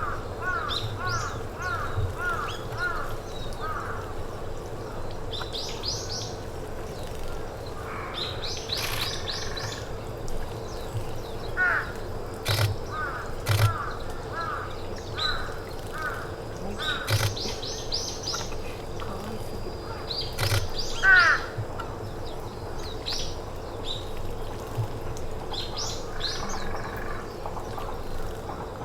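Wild forest birds calling: rapid series of short, repeated call notes at the start and again in the middle, mixed with high-pitched chirps, over a steady faint hum, with a few sharp clicks in the middle.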